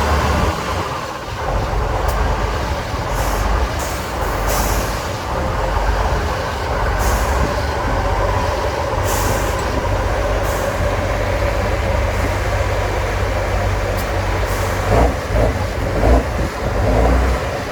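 Diesel engine of an 8x8 trial truck running, with several short air hisses from its air brakes.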